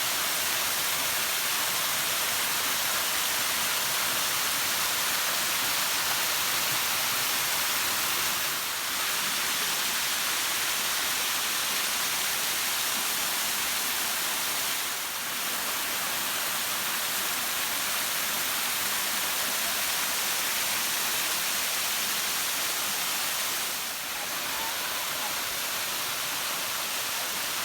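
Water rushing down a small waterfall and stream: a steady, hissing wash, dipping briefly three times.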